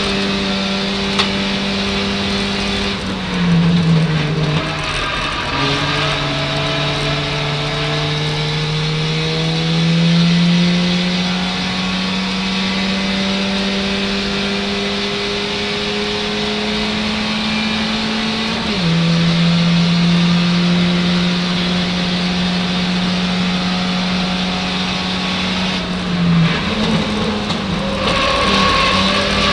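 Ford Fiesta race car's engine heard from inside the cockpit, at race pace. Its note drops a few seconds in, then climbs slowly under throttle for about thirteen seconds. It falls sharply at an upshift, runs steady, and the revs jump about again near the end.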